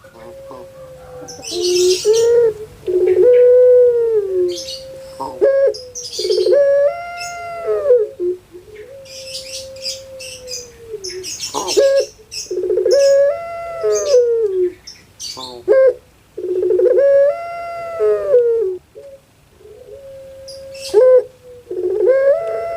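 Puter pelung dove (domestic Barbary dove, Streptopelia risoria) cooing over and over in long, drawn-out phrases that swell up and fall away, a new phrase every few seconds. Short high chirps break in now and then.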